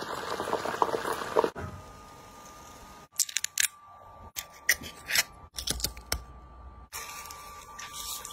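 Oil sizzling and crackling around long green beans frying in a pan. After a cut, the shell of a cooked shrimp cracks and snaps in a string of sharp clicks as it is peeled by hand. Frying sizzle returns near the end.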